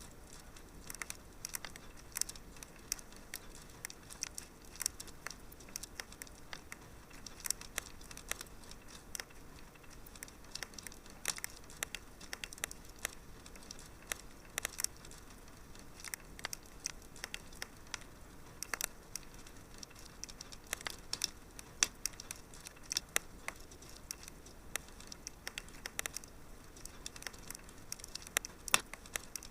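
Fire crackling in a fireplace: irregular sharp pops and snaps, a few louder than the rest, over a soft steady hiss.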